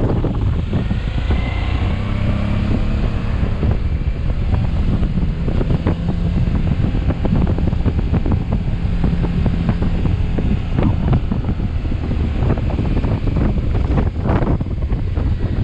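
Motorcycle engine running under way, heavily buffeted by wind noise on the microphone.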